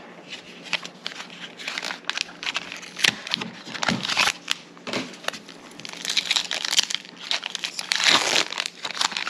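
Plastic foil wrapper of a Pokémon card booster pack crinkling and crackling as it is opened and handled, with a dense, louder run of crinkling in the second half.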